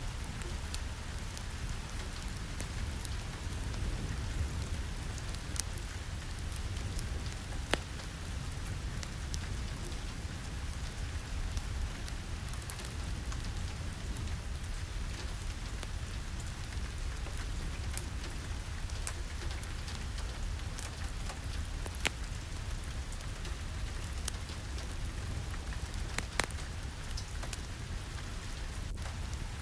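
Steady rain falling, a continuous even hiss over a low rumble, with scattered sharp clicks throughout.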